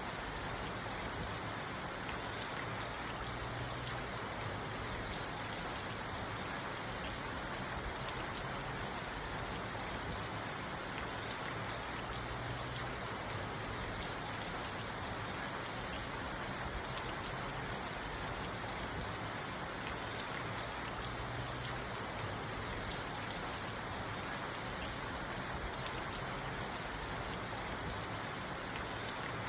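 Steady rain falling on a parked car, heard from inside the car.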